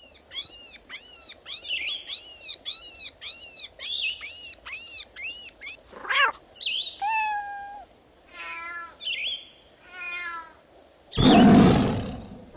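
A run of animal calls. About a dozen high, arched chirping calls come about two a second, then several different shorter calls follow. A loud roar from a big cat starts about 11 seconds in.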